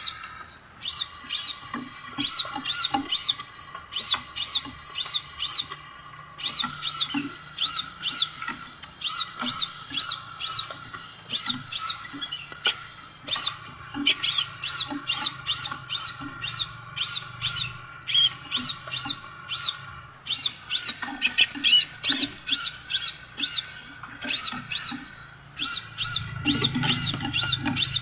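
Scarlet minivet (sepah raja) song: runs of short, high whistled notes repeated several times a second, broken by brief pauses.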